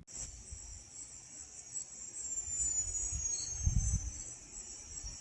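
Crickets chirring in a steady high-pitched band, with a faint thin whine slowly falling in pitch through it. Low rumbling bumps, strongest a little past the middle.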